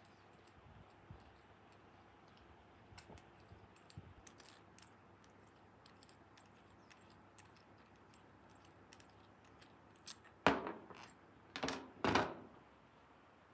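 Scattered light clicks and taps of small objects being handled, then three louder, longer noises near the end.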